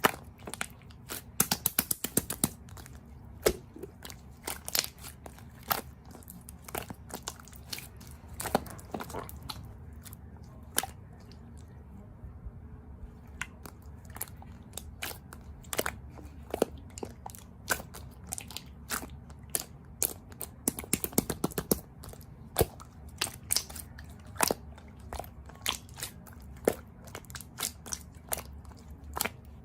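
Close, crisp crunching and clicking in irregular quick clusters, like someone chewing crunchy food right at the microphone.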